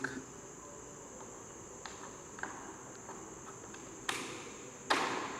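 Small handling sounds as a soap mould and an instant-glue tube are handled: a couple of faint clicks, then two sharper knocks about four and five seconds in, over a steady high-pitched hiss.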